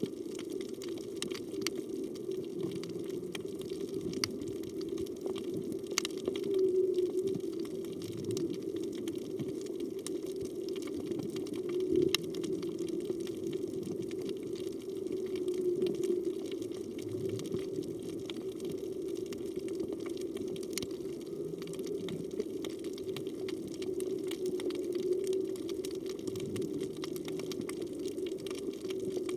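Underwater reef ambience: a steady rush of moving water with scattered sharp clicks and crackles, swelling slightly now and then.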